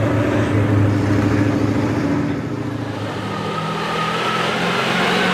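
Chevy diesel mega mud truck's engine running under load. It eases off about two seconds in, then revs back up from about three seconds.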